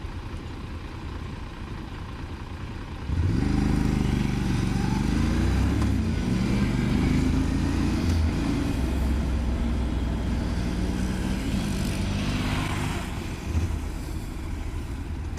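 Motorcycle engine pulling away about three seconds in and accelerating, its pitch rising and falling several times as it runs up through the gears, over wind rush.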